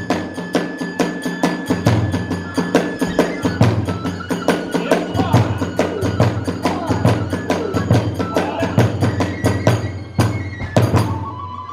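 Kagura hayashi ensemble playing a fast rhythm: a big drum pulses under rapid clashing of small hand cymbals, with a held flute note for the first few seconds. The music breaks off shortly before the end.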